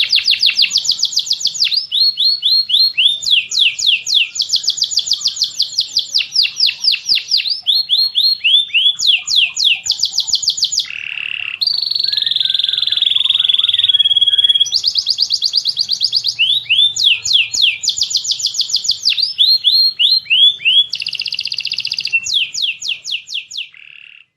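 Recorded birdsong mixing tengkek buto (kingfisher), cililin and canary songs: fast runs of sharp high chirps, each note sweeping down in pitch, in bursts of a few seconds, with a longer wavering high note about halfway through.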